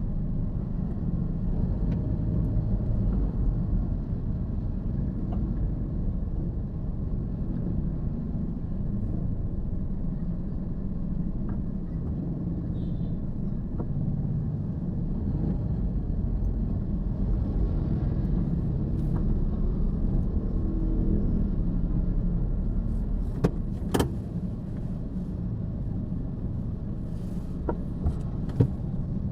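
A car driving, a steady low road-and-engine rumble, with a few sharp clicks in the last several seconds.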